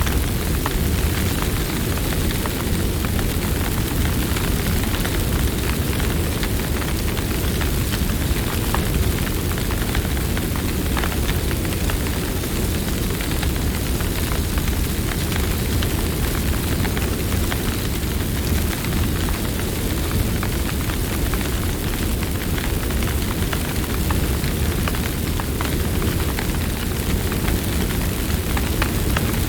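Campfire burning: a steady low rumble of flames with scattered small crackles and pops from the burning wood.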